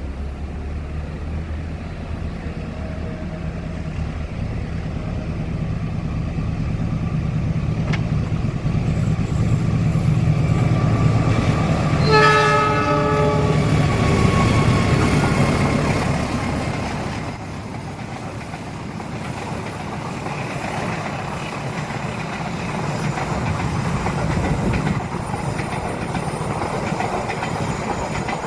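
A diesel-hauled train approaches and passes, its locomotive engine growing louder, with a short horn blast about twelve seconds in at the loudest point. The carriages then roll by with wheels clattering over the rail joints.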